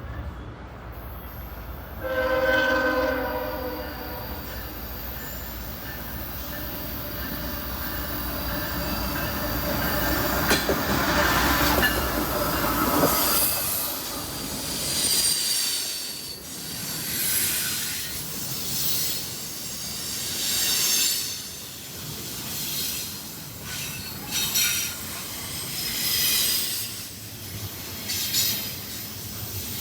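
A diesel freight locomotive's horn sounds once, for about two seconds, over the low rumble of the passing engines. After the locomotives go by, the train's cars roll past with high-pitched wheel squeal coming and going.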